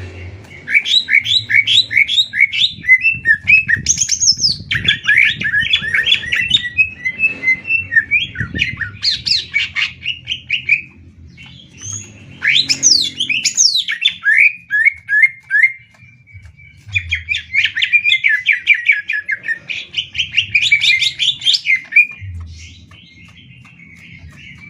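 Cucak ijo (green leafbirds) singing against each other in long, loud runs of rapid repeated chirping notes, with short breaks about 11 and 16 seconds in and a quieter close.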